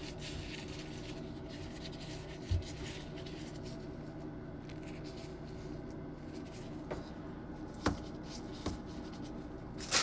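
Steady low hum of room tone with faint rubbing and handling sounds, a soft low thump about two and a half seconds in and two light clicks near the end.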